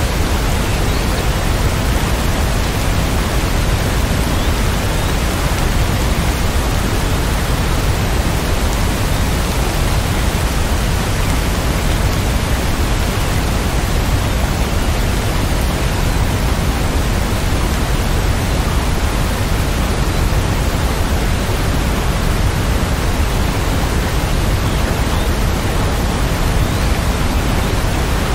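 Steady, unbroken rain noise, an even hiss heaviest in the low end, with no thunder and no single drops standing out.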